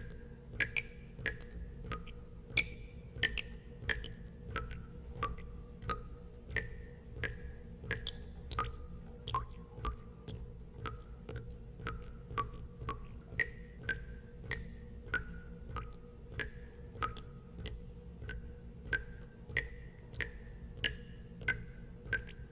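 Water drops falling one after another into water, each a short plink with a brief ringing tone that shifts in pitch from drop to drop, about one and a half drops a second, over a steady low hum.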